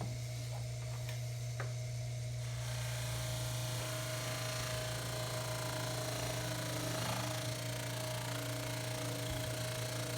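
Baldor 353T dental lathe running steadily with a low motor hum and a thin steady tone. About two and a half seconds in, a broad hiss of the spinning buffing wheel working a pipe stem sets in and continues.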